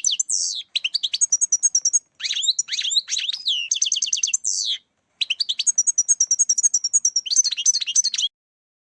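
European goldfinch singing: rapid, tinkling twitters and trills in fast runs, with short breaks about 1, 2 and 5 seconds in. The song stops shortly before the end.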